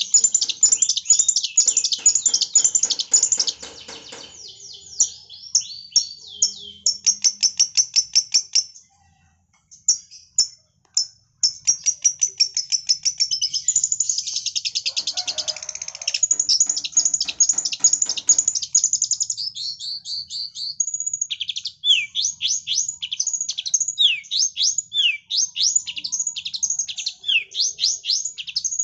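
Long-tailed shrike singing in full voice, mimicking lovebird calls: a fast stream of high chirps and trills. It breaks off for a couple of seconds about nine seconds in. Later the song turns into a quick run of short, downward-sweeping notes.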